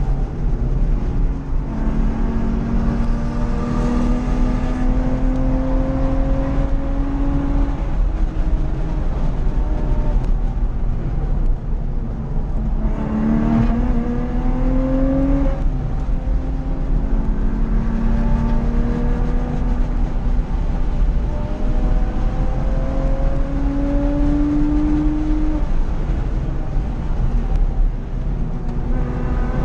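Porsche 911 Carrera 2 (997) flat-six engine heard from inside the cabin under hard track driving, its note climbing again and again through the gears and dropping back at lifts and downshifts about a second and a half in, around twelve seconds and near the end. A steady rumble of road and wind noise runs underneath.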